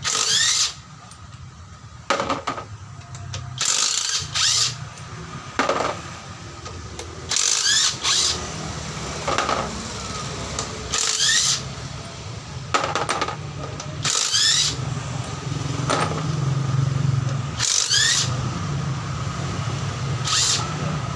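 Power wrench spinning out the 17 mm bolts of a truck's axle-shaft flange in short bursts, about one every one to two seconds, over a steady low hum.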